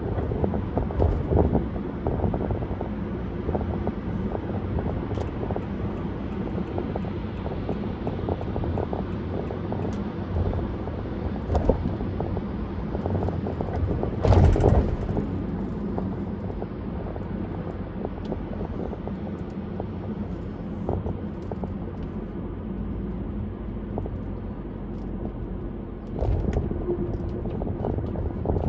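Car driving on a parkway: steady low road rumble and wind noise with scattered small knocks, and a brief louder rush about halfway through.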